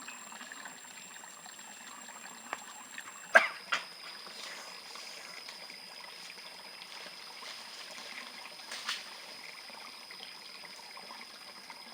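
Water trickling, with a few faint clicks and a louder sharp double knock about three and a half seconds in, and another knock near nine seconds.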